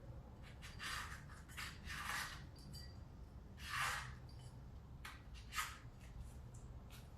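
A piece of cardboard spreading anti-seize compound on the exhaust trumpet: a run of short, faint scraping strokes, the strongest about four seconds in.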